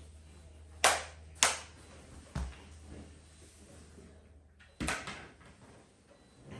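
Sharp plastic clicks, about three of them spread over several seconds, and one dull knock as a Blu-ray case and disc are handled and opened, over a low steady room hum.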